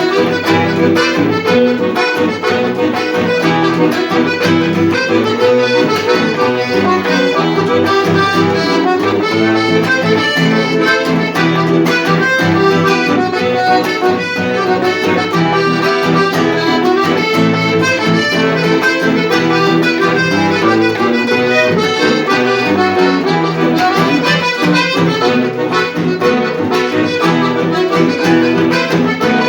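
Accordion music playing continuously, with dense sustained chords and melody.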